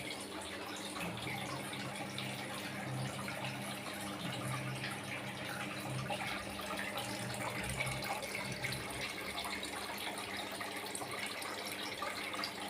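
Water pouring and splashing steadily down a home-made styrofoam aquarium waterfall, with a steady low hum underneath.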